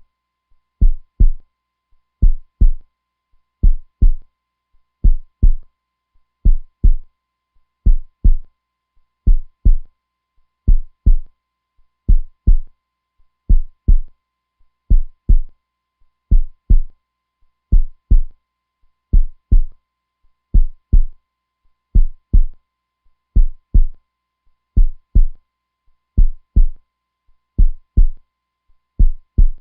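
Heartbeat sound, a steady slow lub-dub: pairs of deep thumps repeating about once every one and a half seconds.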